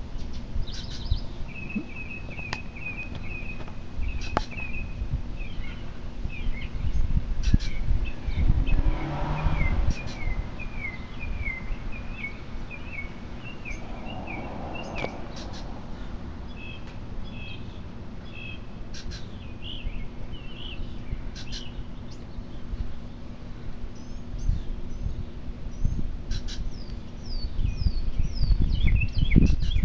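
Birds chirping in long runs of short, quickly repeated high notes, with a few pauses, over a steady low rumble.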